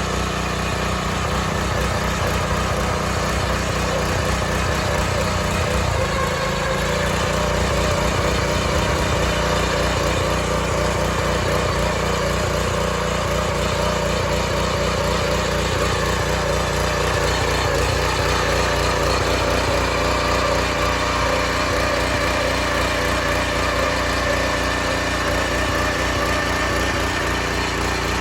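Small engine of a Kaan 230S motor hoe (garden tiller) running steadily under load as its tines work hard, compacted ground.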